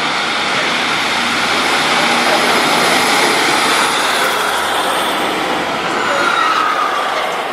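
A train running close past the platform: loud, steady rail noise, with a high whine that falls in pitch in the second half.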